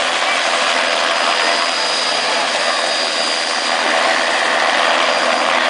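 Helicopter running close by: a steady, loud rush of turbine and rotor noise with a thin, steady high whine over it.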